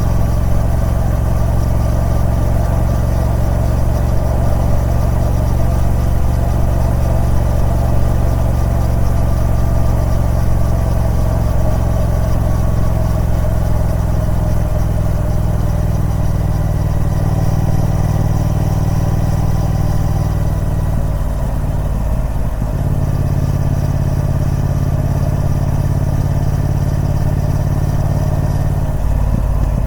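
Triumph Speed Twin 1200's 1200cc parallel-twin engine running through its stock exhaust at a steady note. The engine note changes about two-thirds of the way through and again near the end.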